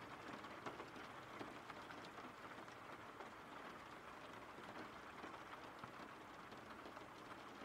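Faint, steady rain, with light scattered drop ticks.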